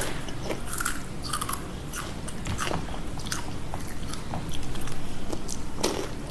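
Someone chewing crunchy Takis rolled tortilla chips, with irregular crisp crunches.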